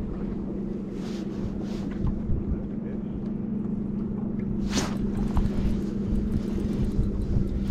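Boat motor running steadily, a low hum over a rumble, with a short swish about five seconds in.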